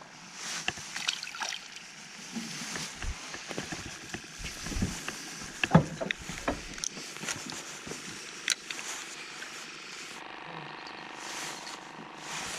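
Scattered knocks, clicks and rustling from someone handling things on a boat dock, with the loudest thump about six seconds in.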